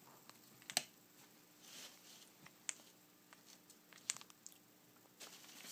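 Faint tapping and scuffling of a cat's paws and claws on the floor during play: a few sharp clicks with soft brushing sounds between them.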